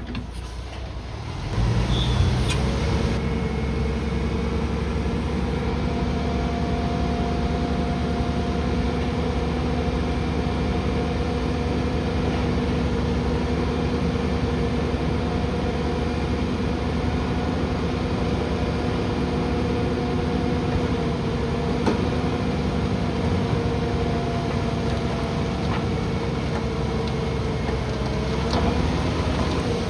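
Heavy earthmoving machine's diesel engine running steadily under power. It comes in loud about a second and a half in, holds an even pitch, and eases off near the end.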